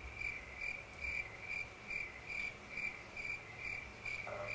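Crickets chirping, an even chirp repeating about twice a second. This is the stock sound effect for a joke met with silence.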